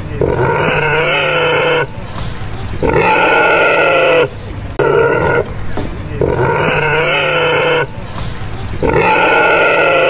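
Pigs calling: a series of drawn-out, pitched squealing calls, each one to one and a half seconds long, with short gaps between them, about five in all.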